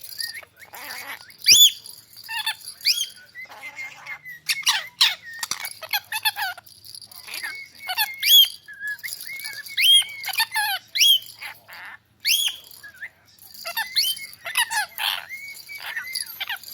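Pet parrot chirping and squeaking: a continual string of short, high, arching calls with brief pauses between them.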